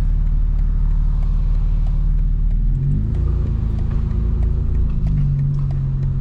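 Straight-piped BMW M4 Competition's twin-turbo inline-six running at low speed, a loud low exhaust drone whose pitch shifts about three seconds in and again about five seconds in.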